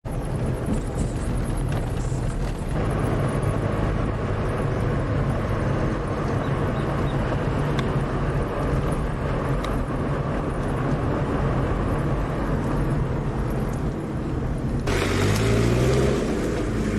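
Motor vehicle engine running steadily with road noise. About 15 seconds in the sound changes and gets a little louder, the engine note shifting in pitch.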